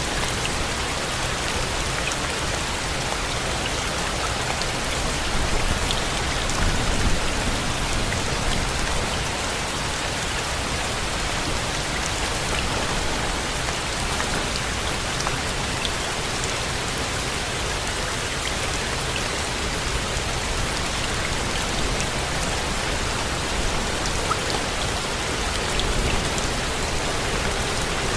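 Steady rain falling, an even wash of noise with scattered single drops ticking through it.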